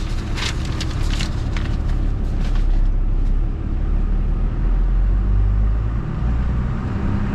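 Old pickup truck driving, its engine running steadily, heard from inside the cab, with a few rattles in the first couple of seconds.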